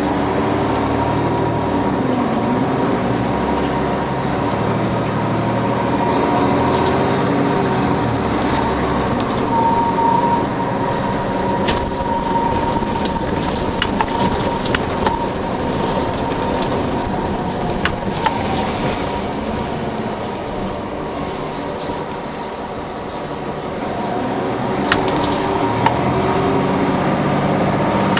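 NovaBus low-floor city transit bus running in service: steady engine and drivetrain noise with a high whine and pitches that rise and fall with speed. Sharp rattles and clicks come through in the middle and again near the end. The noise eases off a little shortly before the end, then builds again.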